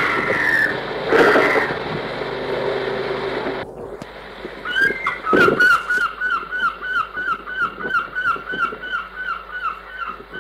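A steady engine drone with two short bird cries over it cuts off abruptly about three and a half seconds in. Then a bird calls in a fast, even series of short down-slurred notes, nearly three a second, with a single thump just after the calls begin.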